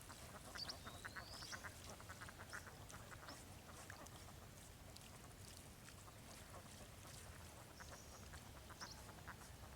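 Faint outdoor animal calls: trains of rapid, quack-like pulses repeating through the clip, with a few high bird chirps and one rising whistle in the first two seconds.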